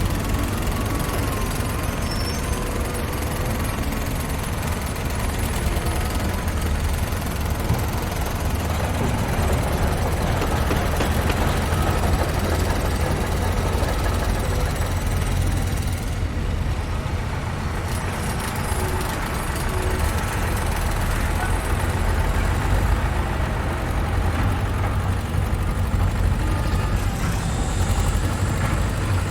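Construction-site ambience dominated by the steady low rumble of a heavy engine running, with a faint mechanical whine and noise over it.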